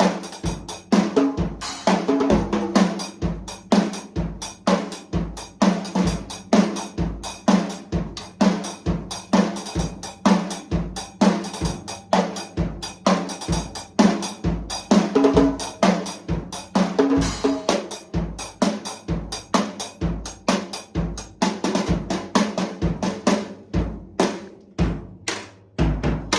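A $50 drum kit played in a steady beat, the kick drum landing about twice a second under snare and cymbal hits. A busier run of hits comes near the end.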